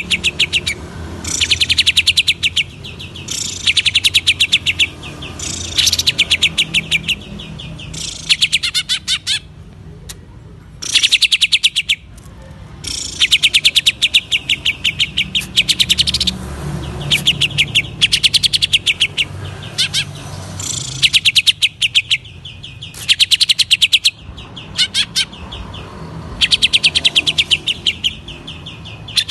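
Green leafbird (cucak ijo) singing in fast rattling bursts: trains of sharp, rapidly repeated notes lasting a second or two each, again and again with short pauses between.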